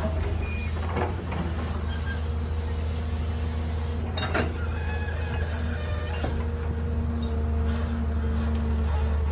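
Heavy machinery's diesel engine running with a steady low drone, with a few sharp knocks about one, four and a half, and six seconds in.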